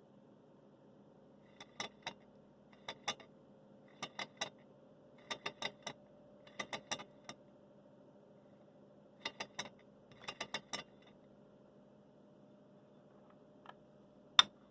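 Clusters of two to four sharp clicks, one cluster about every second, over a faint steady hum. After a pause there is a single louder click near the end.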